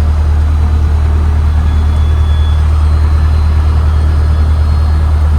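Cessna 152's four-cylinder Lycoming O-235 engine running steadily at low taxi power, a loud, even, low drone.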